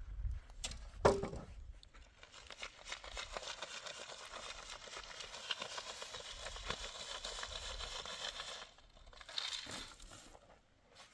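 A single knock with a brief ring about a second in, then about six seconds of continuous crinkling and rustling as dry material is handled, stopping suddenly near the end.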